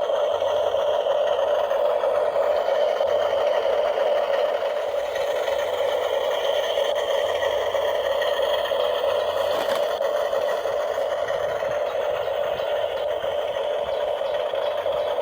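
Small electric motor and gears of a radio-controlled model running with a steady whirr, with a single click about ten seconds in.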